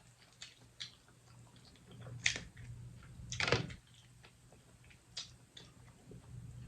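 Close-up eating sounds from a seafood boil: a scatter of sharp clicks and crackles of crab shell and wet chewing, the loudest about two and three and a half seconds in.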